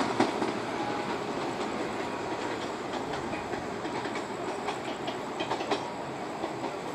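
Diesel-hauled passenger train running past, its coach wheels rumbling and clattering over the rail joints with scattered sharp clicks and knocks.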